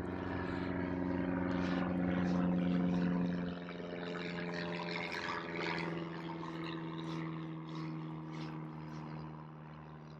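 Steady drone of a propeller airplane passing overhead, loudest a couple of seconds in, then easing off with its pitch drifting slightly lower.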